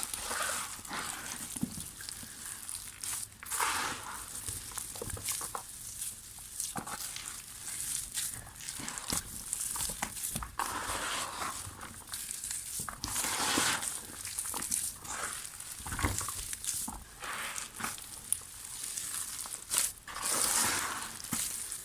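Dry, soft mud texture being crumbled, giving an irregular run of crunches and crackles.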